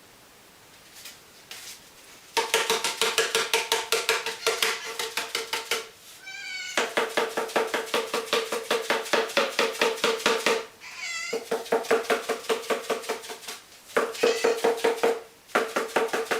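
Empty cardboard tube patted rapidly against a cat, hollow pitched bonks about eight a second, in several runs with short breaks. In two of the breaks the cat gives a short, wavering meow.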